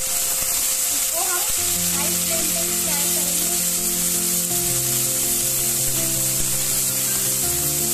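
Tomato paste and fried onions sizzling in hot oil in a steel kadhai over a high flame, stirred with a metal spatula.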